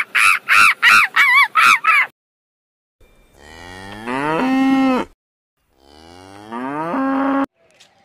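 A primate's rapid, high, rising calls, about four a second, stop about two seconds in. After a short gap a cow moos twice, each long moo rising in pitch and then held steady.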